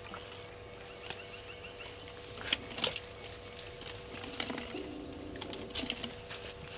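Outdoor bush ambience: a few short bird chirps and scattered sharp clicks or knocks, the loudest two close together about two and a half seconds in, over a faint steady hum.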